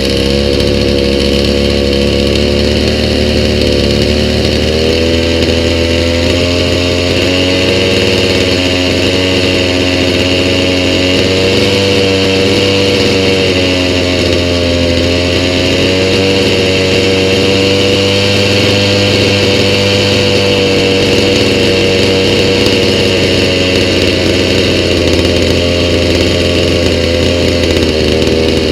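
Stihl MS290 two-stroke chainsaw engine running steadily, its speed wandering slightly up and down, on a replacement aftermarket carburetor whose mixture screws are set at 1 1/4 turns out on the low and 1 turn on the high.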